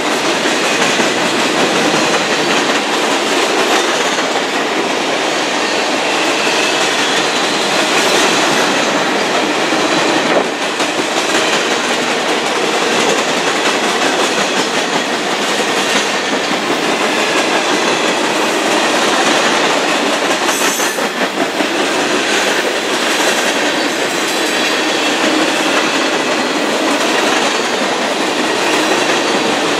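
Manifest freight train's cars, empty centre-beam flatcars and boxcars, rolling past at speed: a steady noise of steel wheels on rail with clickety-clack over the joints and a faint high wheel squeal above it.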